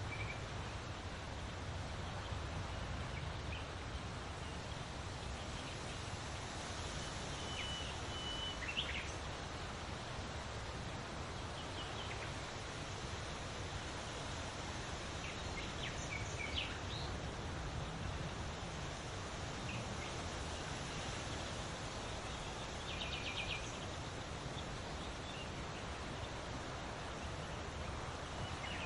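Scattered short bird calls and chirps over a steady outdoor background of hiss and low rumble, with a quick trill about two-thirds of the way through.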